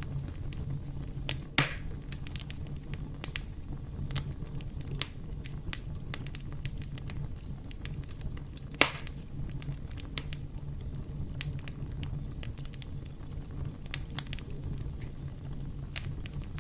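Wood fire in a fireplace crackling, with a steady low rumble of flames and scattered sharp pops, two of them louder, about one and a half seconds in and about nine seconds in.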